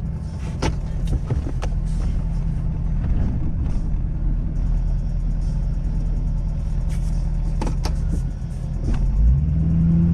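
Ford Super Duty's 6.7-litre Power Stroke diesel running steadily under a plowing load, picking up near the end. A few sharp knocks and clicks come over it.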